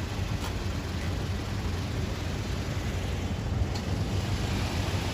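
Steady low mechanical hum with a couple of faint clicks.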